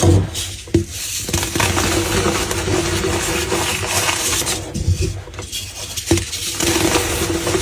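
Brittle material being crushed and crumbled, with dense crunching and crackling and a few sharper snaps.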